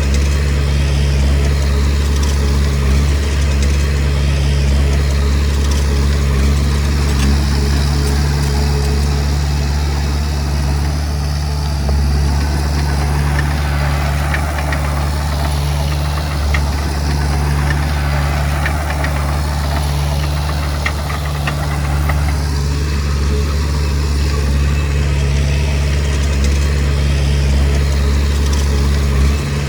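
Komatsu D20P bulldozer's diesel engine running steadily with a deep, even hum. Through the middle there is a rougher, noisier stretch with a few clanks, like the machine working the soil and stone.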